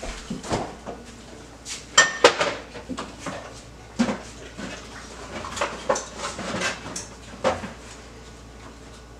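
Kitchen utensils and containers being handled: a series of irregular clinks and knocks, the loudest about two seconds in with a brief metallic ring.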